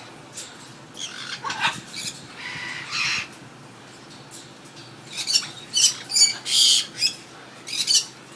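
Caged parrots squawking: a harsh falling call about a second in, a buzzy call around three seconds, then a run of short shrill squawks through the second half.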